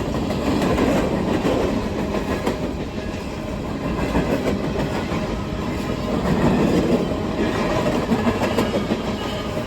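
Freight cars of a westbound coal train rolling past close by: continuous wheel-and-rail rumble with steady clickety-clack over the rail joints, swelling a little louder about a second in and again around six seconds.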